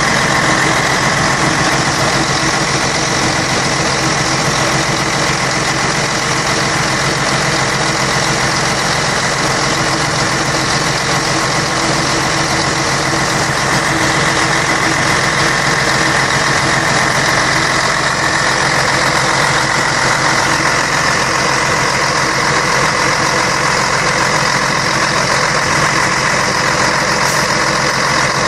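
Scania K113 bus's 11-litre straight-six diesel engine running steadily, with a steady whine over the engine note.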